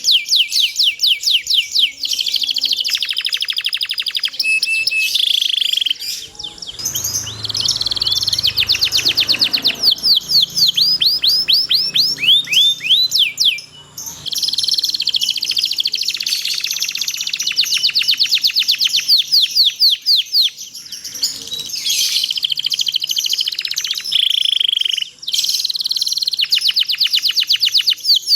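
Domestic canary singing a long, continuous song of rapid high trills and runs of quick sweeping notes, broken by a few short pauses. About a quarter of the way in there is a faint low rustle beneath the song.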